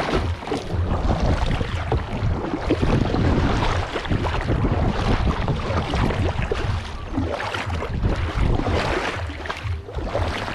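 Water splashing and sloshing around a kayak as it is paddled, in irregular bursts, with wind buffeting the microphone as a low rumble.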